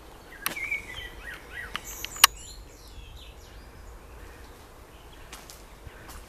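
Songbirds chirping in the trees, a scatter of short high notes mostly in the first half. A sharp click just over two seconds in is the loudest sound, with a fainter one about half a second in, over a low steady background rumble.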